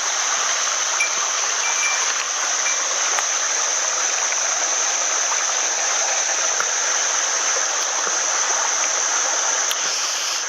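Small mountain headwater stream flowing steadily over rocks, a continuous even rush of water.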